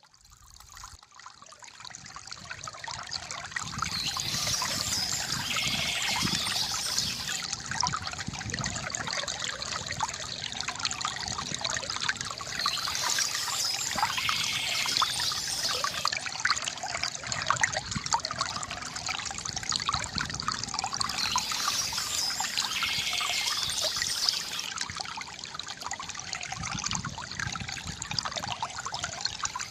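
River water trickling and gurgling, a dense steady splashing that fades up from near silence over the first few seconds.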